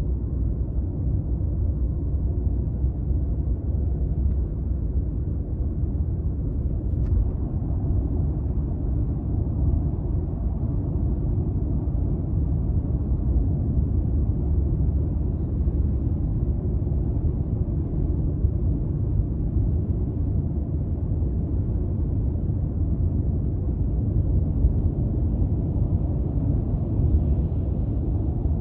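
Steady low rumble of road and engine noise heard inside the cabin of a 200-series Toyota Crown Athlete with the 2.5-litre V6, cruising at an even pace.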